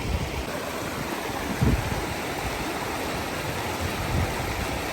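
Rushing mountain stream tumbling over boulders, a steady whoosh of water, with a couple of low thuds about a second and a half in and near the end.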